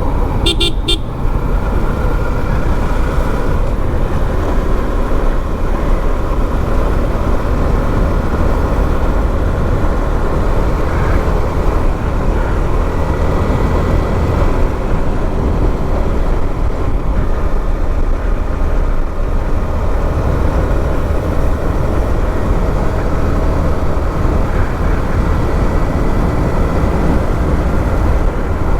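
Motorbike riding along a road, with steady wind rush on the microphone over engine and road noise. A horn gives a few quick toots about half a second in.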